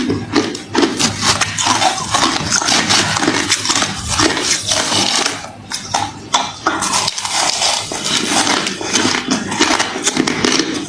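Refrozen crushed ice being chewed close to the microphone: dense, continuous crunching that eases off briefly about five seconds in.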